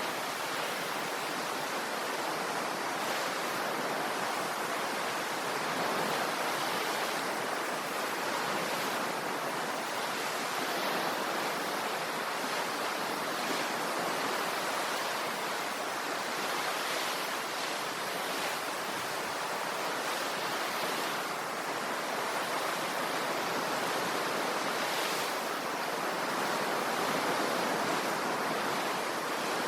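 Ocean waves washing on the shore: a steady surf with gentle swells in level.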